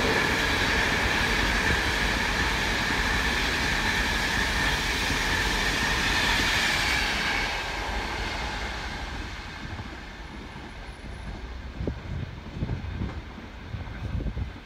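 LNER express passenger train passing at speed, with loud steady wheel-on-rail noise and a high tone running through it. About seven seconds in it begins to fade as the train draws away, leaving uneven low rumbles near the end.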